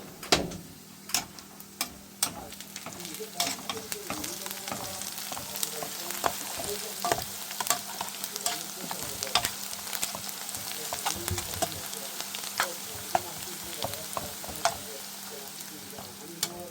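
Food sizzling in hot oil in a pan while a utensil stirs it, with frequent clicks and scrapes against the pan. The sizzle grows louder a few seconds in.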